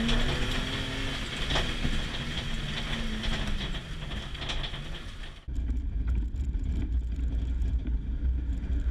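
Rally car's straight-six engine running hard in the cabin, its pitch holding and then falling off three to four seconds in, with clicks and knocks from the car over a wide rushing noise. About five seconds in the sound switches abruptly to a deep, muffled low rumble with little treble.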